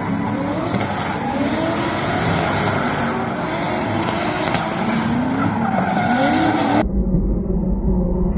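Drift car engine revving up and down as the car slides, its pitch rising and falling again and again. About seven seconds in, the sound cuts abruptly to a muffled, low, steady rumble.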